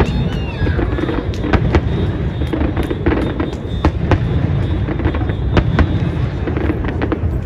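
Fireworks display: many sharp bangs and crackles of aerial shells bursting in quick, irregular succession over a continuous low rumble.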